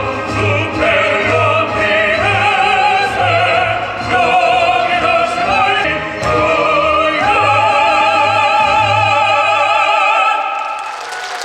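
Live operatic singing with strong vibrato over accompaniment with a regular low bass pulse, ending on a held note about ten seconds in. Applause begins just before the end.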